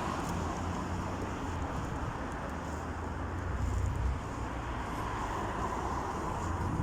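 Steady road noise from car traffic, a low rumble with a swell about five seconds in as a vehicle goes by.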